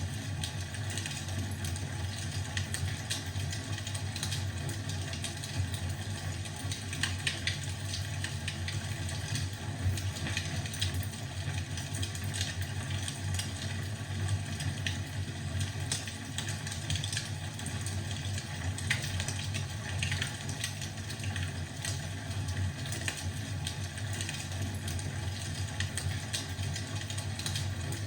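Wood fire crackling in a fireplace, with many small sharp pops scattered over a steady low rumble.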